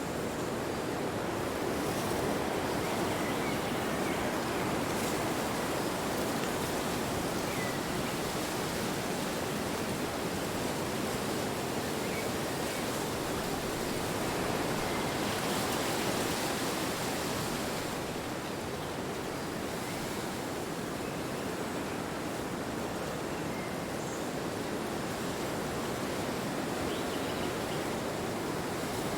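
Wind blowing steadily, a rushing noise that swells slightly about fifteen seconds in.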